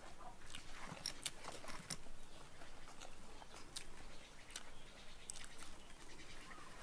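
A person chewing food, with irregular small clicks from the mouth.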